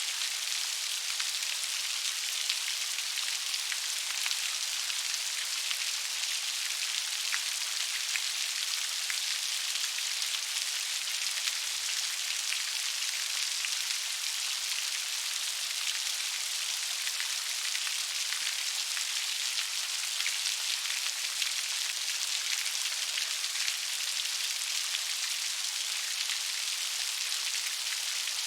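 Steady gentle rain, an even high hiss full of fine pattering drops.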